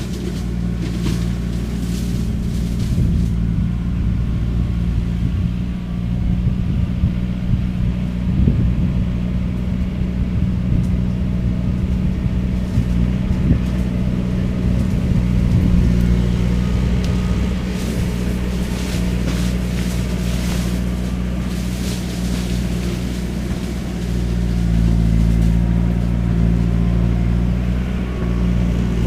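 Skid steer engine running steadily under load while its shredder head chews through cane, with scattered sharp cracks and clatter from the cutting.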